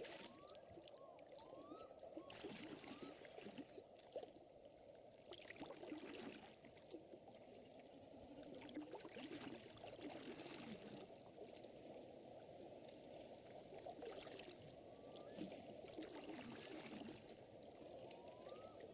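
Faint water trickling and lapping, an unbroken busy burble with brief swells of higher splashy hiss every few seconds. A few short rising chirps sound at the start and again near the end.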